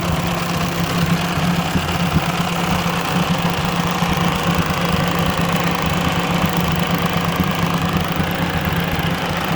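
1957 Ford 841 tractor's four-cylinder gasoline engine idling steadily, running on a newly fitted replacement carburetor.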